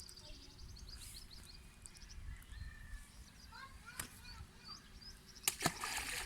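Small birds chirping in quick trills and short sliding calls, over a faint outdoor rumble. A sharp click about four seconds in, and a brief loud swish with clicks near the end.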